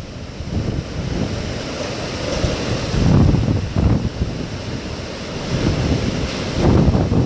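Storm wind gusting and buffeting the microphone over a steady rushing noise, with heavy gusts about three seconds in and again near the end.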